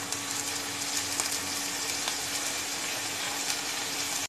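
Chopped capsicum, onion and garlic frying in hot oil in a pan, with chilli sauces and vinegar just poured in: a steady sizzle full of fine crackles.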